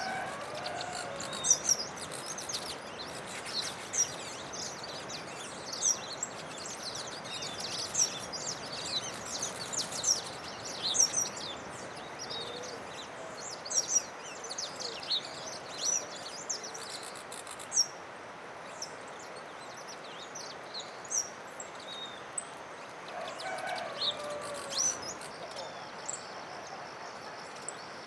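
Small forest songbirds calling: many short, sharp high chirps, busiest in the first two-thirds and thinning out after that, with a couple of lower whistled phrases near the start and near the end. A faint steady high hiss joins in the last third.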